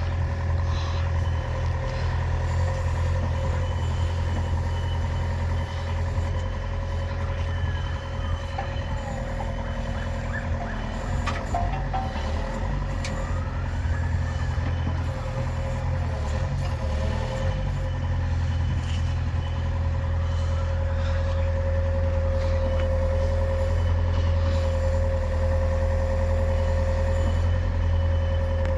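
Hitachi excavator's diesel engine running steadily with a deep hum and a steady whine. Its pitch glides up and down for a while in the middle, and a faint beeping comes and goes.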